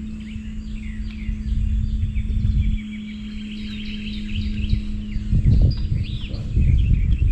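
Many small birds chirping, with a low, uneven rumble of wind on the microphone that grows stronger in the second half and a steady low hum underneath.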